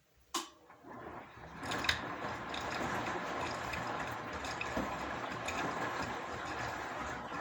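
Washing machine with a sharp click, then a steady rush of water building up over the next second or so as it starts filling, with small ticks over it.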